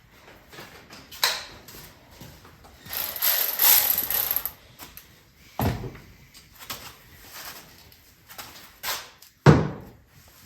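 Hand tools and parts being handled while unbolting an ATV's front bumper: scattered clicks, a rattling scrape lasting about a second and a half, and two heavy thumps, the second one the loudest near the end.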